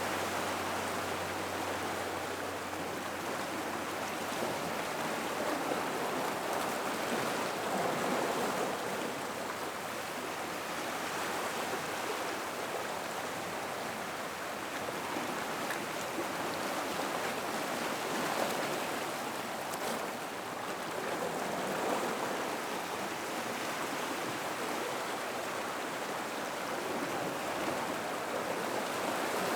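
Gentle sea water washing in and out of a rock pool: a steady rushing wash that swells a little now and then.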